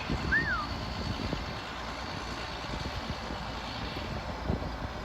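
Steady low rumble of an engine running. Right at the start come two short chirps that swoop up and down, about half a second apart.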